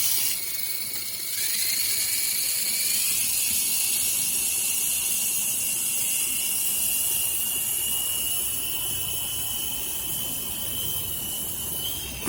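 Toy remote-control helicopter's small electric rotor motors whining at high speed. The whine dips, spins back up with a rising pitch about a second and a half in, holds steady while creeping slightly higher, and cuts off suddenly near the end.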